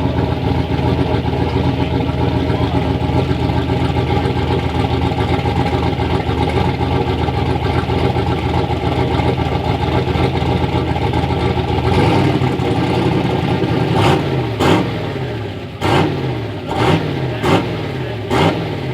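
Ford Ranger's turbocharged engine running steadily. Past the middle its note changes, and then it is revved in six quick throttle blips, each falling back down in pitch.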